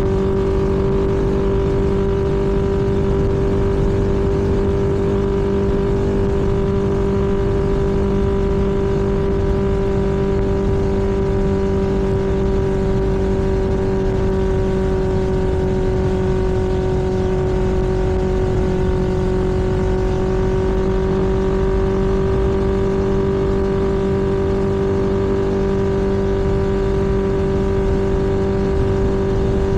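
Vehicle engine holding a steady cruising speed: one constant drone that does not rise or fall, over a steady rushing noise.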